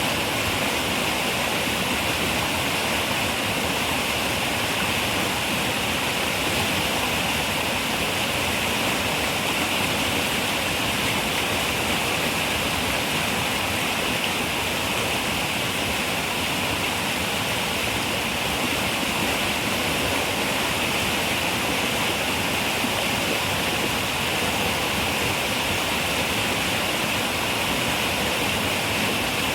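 Running river water rushing steadily, an even hiss with no breaks or changes.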